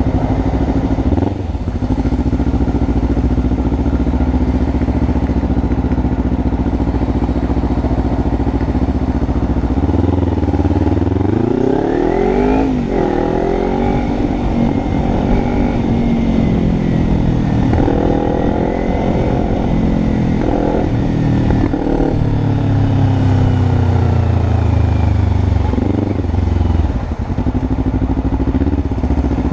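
Kawasaki Ninja 300's parallel-twin engine heard from on the bike under heavy wind noise. It runs steadily at first, then about a third of the way in the revs climb through several upshifts. Near the end the revs fall away as the bike slows, settling to a low steady note.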